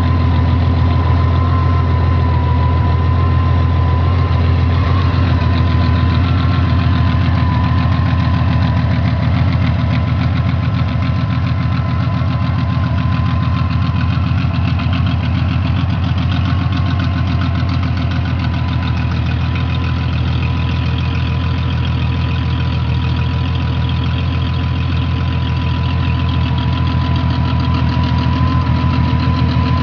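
Honda Rune's flat-six engine idling steadily through open exhausts with all internal baffles removed, a deep open note.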